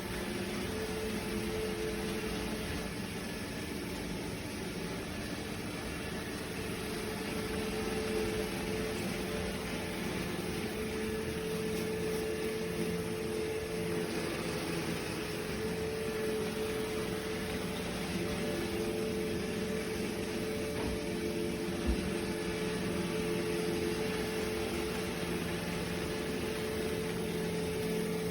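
Robot vacuum running: a steady motor and brush hum with a few humming tones that fade in and out, and one soft thump about three-quarters of the way through.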